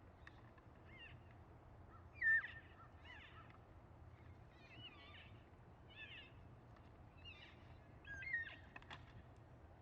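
Birds calling outdoors: a series of short, pitched calls that bend up and down in pitch, with two louder calls, one about two seconds in and one near the end.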